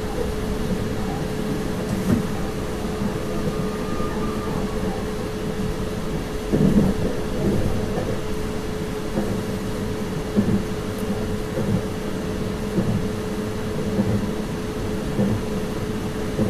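Electric train heard from the driver's cab, running steadily with a constant hum over the rumble of the wheels on the rails. A few short thumps break in, the strongest about six and a half seconds in.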